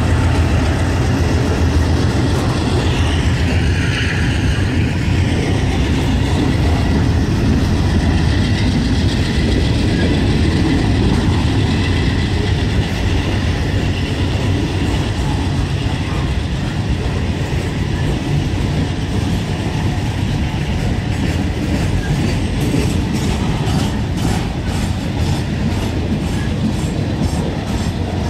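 Mixed freight train cars rolling past at speed, a steady loud rumble of wheels on rail. The low engine drone of the just-passed locomotives fades over the first few seconds, and the wheels clack over the rail joints, more distinctly near the end.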